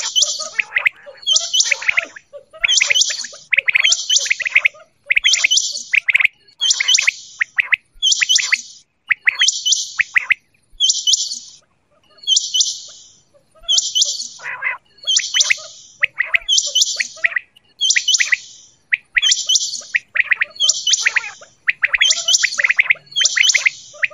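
Quail calling over and over, about one short, high call a second, each with quick falling notes under it, with a brief pause near the middle.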